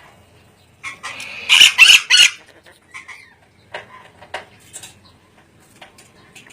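Ornate lorikeet calling: a call starting about a second in, then three loud squawks in quick succession, followed by scattered short chirps and clicks.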